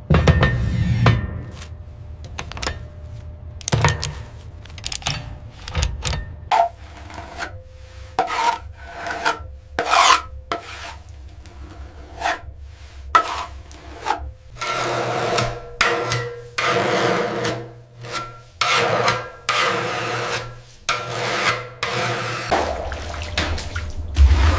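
Repeated rubbing and scraping strokes of a hand tool or abrasive on a surface, irregular at about one or two a second, over a low steady rumble that drops away for a while in the second half.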